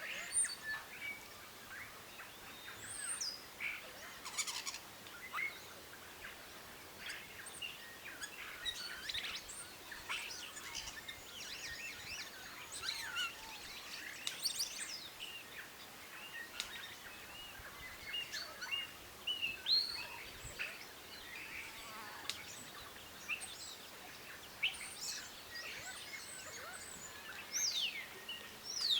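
Many birds chirping and calling at once: a dense run of short, overlapping chirps and quick whistled glides that goes on without a break.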